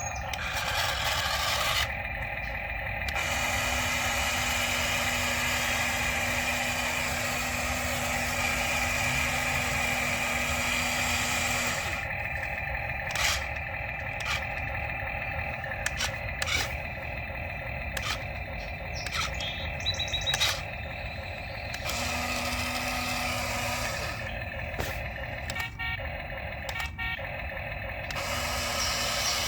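Toy RC excavator's small electric motors whirring as its arm and tracks are worked by remote control, with a low motor hum that starts and stops and a run of sharp plastic clicks in the middle.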